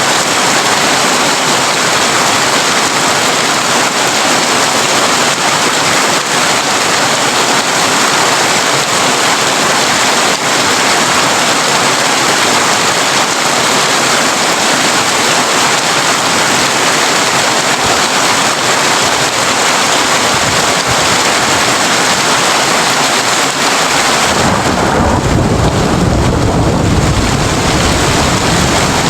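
Heavy rain drumming steadily on a tin roof, a dense even hiss. About 24 seconds in, a deep rumble of thunder rolls in and continues to the end.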